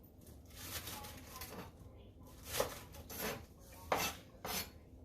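Kitchen utensils clinking and knocking against dishes and cookware: a handful of irregular sharp knocks, spaced half a second to a second apart.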